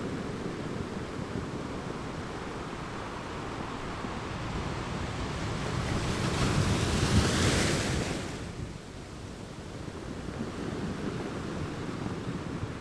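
Ocean waves washing onto a shore: one wave's wash swells to a peak about seven seconds in, then falls away quickly.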